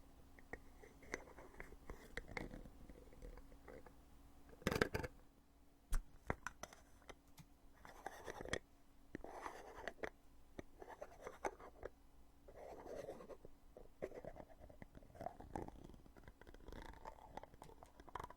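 Lid of a foundation container being opened and closed by hand: small plastic clicks and snaps with soft rubbing and scraping between them. The loudest moments are a quick cluster of clicks about five seconds in and a single sharp click just after.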